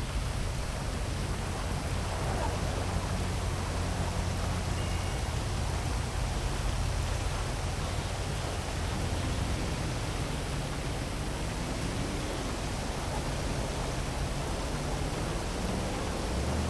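Heavy rain falling steadily, with a low rumble of city traffic beneath it. In the second half a faint engine note rises and falls, as of a vehicle passing.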